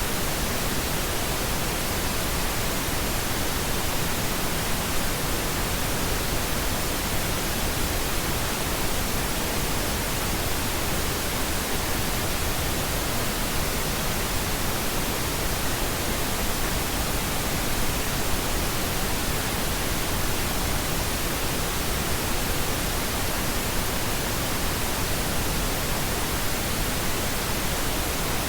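Steady pink noise: an even, unchanging hiss spread across the whole range, fuller in the lows than white noise.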